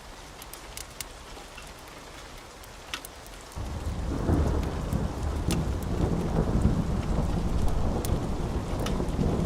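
Wood fire crackling with sharp pops over a steady hiss. About three and a half seconds in, a deep rolling rumble of thunder sets in suddenly and keeps rolling, much louder than the fire.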